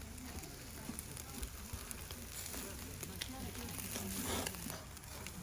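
Food sizzling as it fries in a pan, with scattered pops and crackles; the sizzle briefly grows louder about four seconds in.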